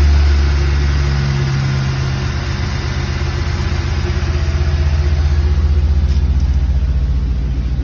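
1998 Lincoln Mark VIII's 4.6-litre DOHC V8 idling, about a minute and a half after a cold start. Its low note eases about a second in, then settles into a steady, even throb.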